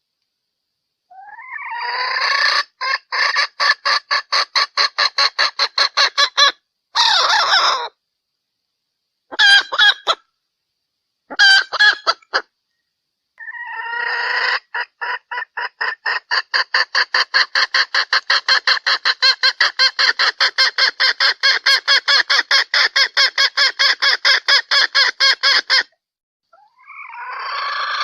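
Female junglefowl calling in runs of quick, evenly spaced clucks, about four a second, the call used as a lure to draw in junglefowl. The runs come in several bursts that cut off into dead silence, as in an edited recording, with the longest run in the second half.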